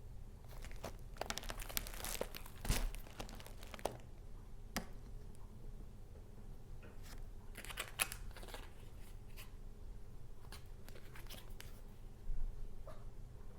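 Paper being handled: crinkling and rustling in several separate bursts, with a sharp crackle about five seconds in and a low thump near the end.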